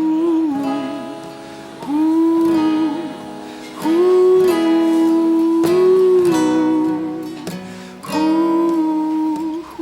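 A man singing long wordless held notes with vibrato, four phrases in a row, over a strummed acoustic guitar.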